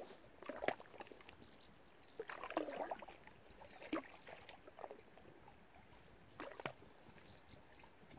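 Faint, irregular splashes and slaps of water, a few short bursts several seconds apart with the longest about two and a half seconds in.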